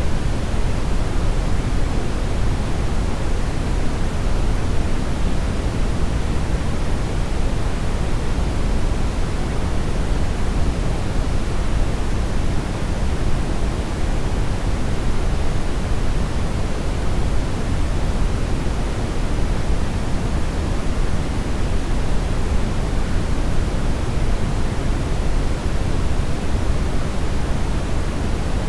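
Steady synthetic brown noise: an even, unchanging rumble-like hiss weighted heavily toward the low end, with no events or changes.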